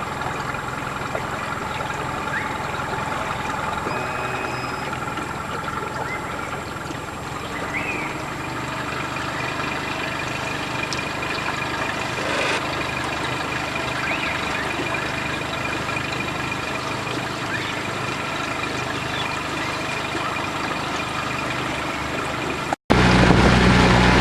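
Outboard motor on a small aluminium boat running steadily at low speed. Just before the end the sound cuts abruptly to a louder, deeper engine run.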